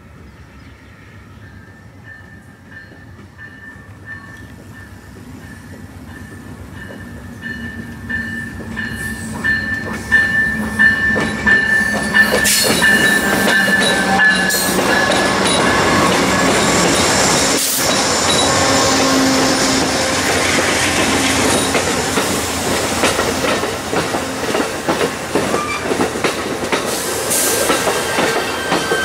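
Amtrak's Southwest Chief passenger train pulling into the station. A high steady squeal grows louder over the first dozen seconds, then the train is close and loud, with rapid knocks of the wheels over the rail joints as it slows for its stop.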